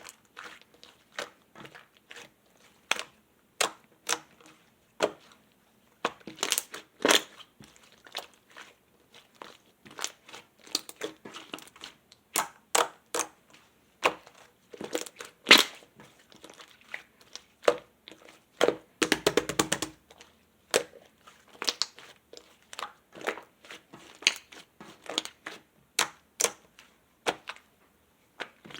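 Slime being kneaded, pressed and mixed by hand, giving irregular crackling and popping clicks, with a quick run of rapid crackles about two-thirds of the way through.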